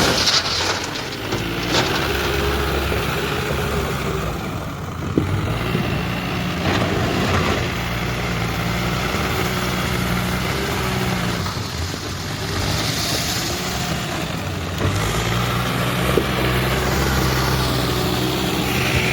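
Mahindra backhoe loader's diesel engine running steadily, its engine speed rising and falling a few times, with a few short knocks.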